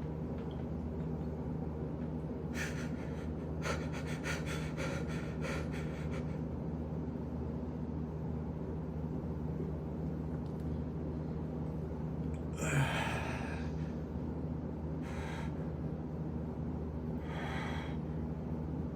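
A person breathing through an emotional release. A run of faint, quick, shaky catches comes a few seconds in, then one loud gasping breath about 13 seconds in, followed by two softer breaths, over a steady low hum.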